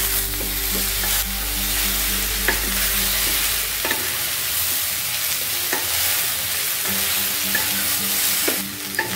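Cauliflower florets and parboiled potato cubes sizzling in hot oil in a frying pan while being stirred with a spatula, which knocks against the pan about five times.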